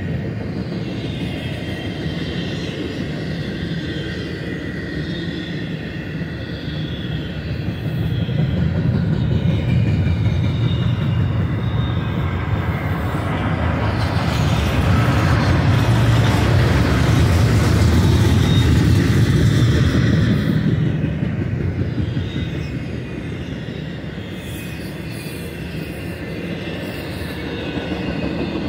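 BNSF double-stack intermodal container cars rolling past: a steady rumble of wheels on rail with faint high-pitched wheel squeal, swelling louder for several seconds in the middle.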